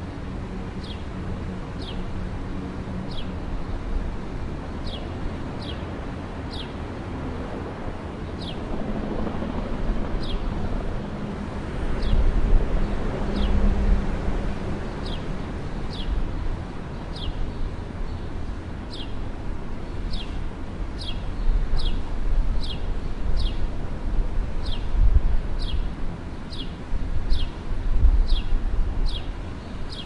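A bird repeating one short, high chirp that sweeps downward, about once a second throughout. Under it is a steady outdoor noise bed with a low rumble that swells in gusts, like wind on the microphone.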